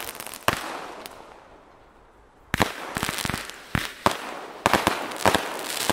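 Consumer fireworks going off: sharp bangs over crackling that die away about a second in, then a fresh volley of rapid bangs and crackles from about two and a half seconds.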